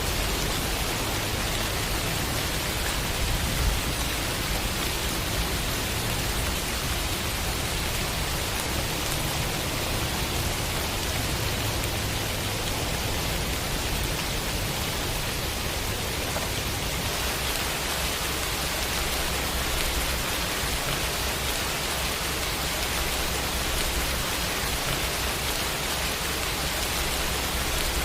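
Steady heavy rain: an even, unbroken hiss of falling rain with a low rumble underneath.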